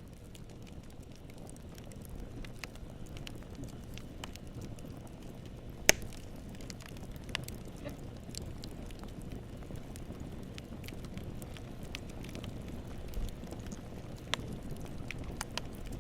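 Campfire crackling: scattered small snaps and clicks over a low, steady rumble of the flames, with one sharp, loud pop about six seconds in.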